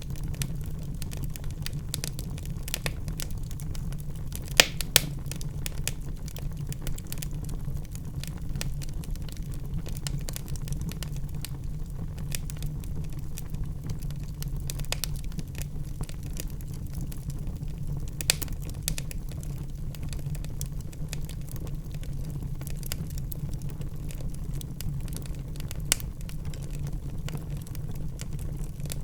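Wood fire burning in a fireplace: a steady low rumble of flames under constant small crackles, with a few louder pops, two of them close together about four and a half seconds in and others near eighteen and twenty-six seconds.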